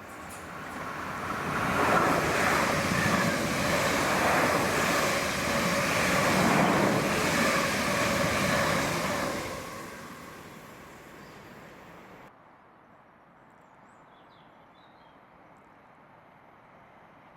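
A passenger train passing through the station: a rushing roar that builds over about two seconds, stays loud for about seven, then dies away.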